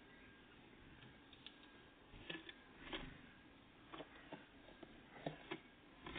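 Great tits and blue tits pecking and hopping at a feeder: about nine irregular light taps and knocks, a few close together.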